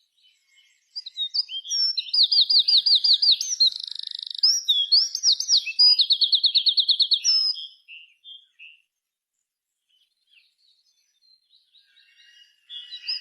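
A songbird singing fast trills of repeated sharp high notes, with varied phrases between them. It starts about a second in, breaks off after about eight seconds, and takes up again near the end.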